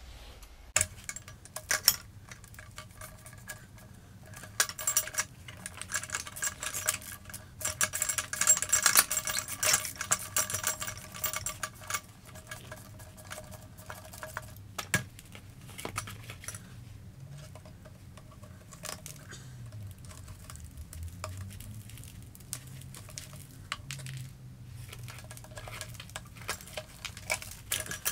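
Metal motorcycle exhaust parts and hand tools being handled: scattered clinks and knocks, with a busy stretch of scraping and rubbing in the first half.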